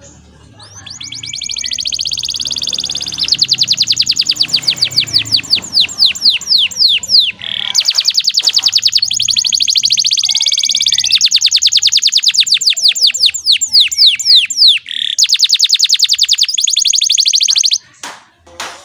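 Domestic canary singing a long continuous song: fast trills of rapidly repeated high notes, changing to a new trill every few seconds, with two brief breaks and a stop shortly before the end.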